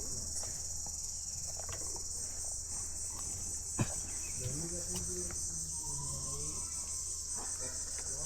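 A steady high-pitched chorus of insects, with footsteps on a forest path and a single sharp click about four seconds in.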